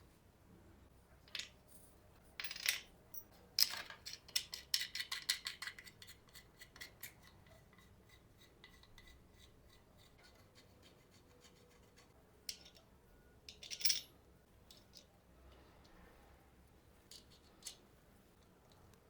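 Light clicks and clinks of small hard objects being handled, with a quick run of them from about three to seven seconds in and a few single clicks later.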